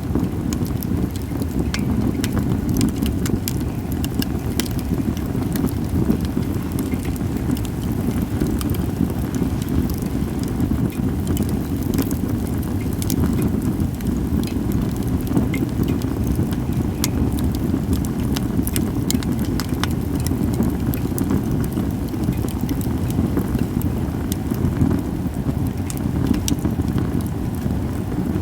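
Japanese cedar (sugi) campfire crackling: sharp pops scattered irregularly over a steady low rumble.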